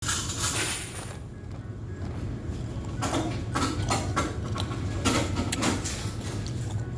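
Ice being crunched between the teeth in irregular bursts of chewing, over the steady low hum of laundromat washers and dryers.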